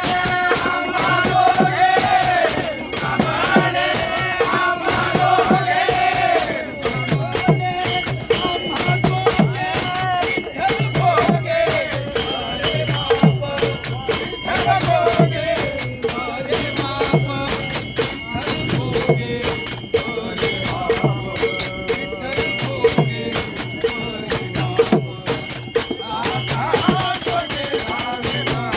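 Bhajan group singing a devotional song over fast, steady jingling hand percussion. The singing stands out most in the first few seconds, and the percussion keeps going throughout.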